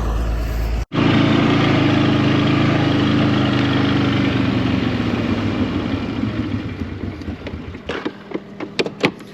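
An engine running steadily and gradually fading, then several sharp knocks near the end.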